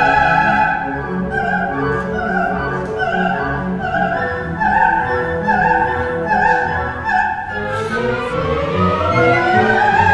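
Coloratura soprano singing a wordless vocalise with an orchestra, bowed strings prominent. The voice holds a high note, then moves into quick repeated bird-like figures, and near the end sweeps in rising and falling glides.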